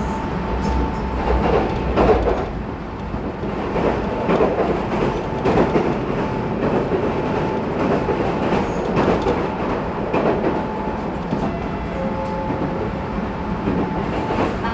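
Running noise inside a Tobu 20400 series motor car with Toyo GTO inverter control, cruising between stations: a steady rumble of wheels on rail with recurring clacks as the wheels cross rail joints. A faint steady whine, typical of the inverter and traction motors, fades away over the first seconds.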